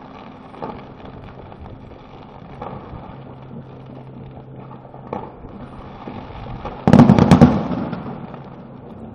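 Fireworks display heard from a distance: a few scattered pops, then, about seven seconds in, a loud rapid cluster of bangs and crackling that fades over about a second.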